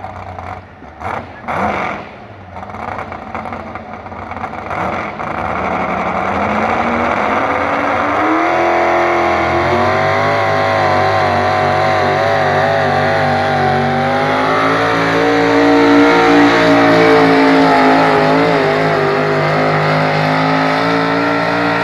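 Big-horsepower modified pulling truck's engine during a pull: it winds up to high revs over several seconds, stays flat out with a wavering pitch, then is shut off abruptly at the end of the run.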